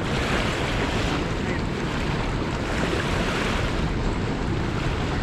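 Heavy river water rushing through a lock-and-dam spillway, a steady rush with slow swells: a high flow of current through the dam.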